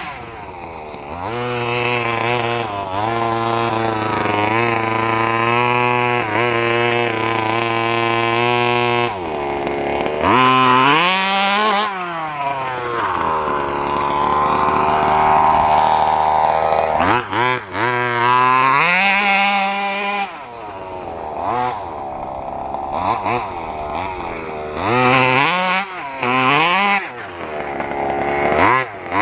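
Small two-stroke 32cc Robin petrol engine of a 1/5-scale RC truck running hard, the engine's pitch holding high, then dropping and climbing again several times as the throttle is let off and reopened.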